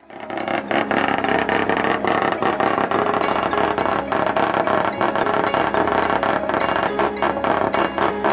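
Drag-race hatchback's engine running loudly while parked, with an uneven, choppy sound.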